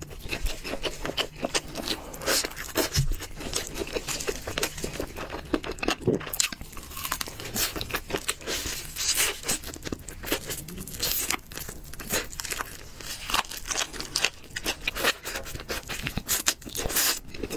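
Close-up eating of chicken: steady chewing with frequent short crunches and tearing sounds as meat and crispy coating are bitten and torn.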